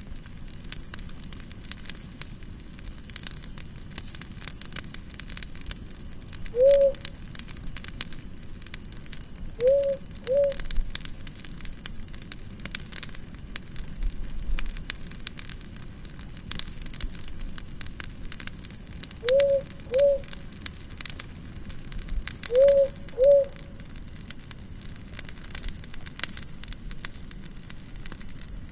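Campfire crackling and popping steadily, with a cricket chirping in a few short quick bursts. Louder short low calls, mostly in pairs, sound several times over it.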